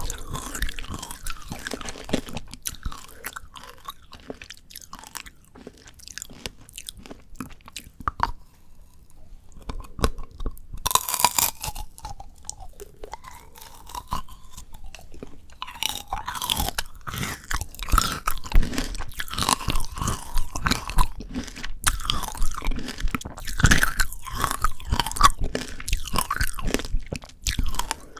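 Close-miked biting and chewing of frozen shine muscat tanghulu: the hard sugar-candy shell cracking between the teeth, with wet chewing of the icy grapes. It is sparser for a few seconds early on, then dense crunching from about halfway through.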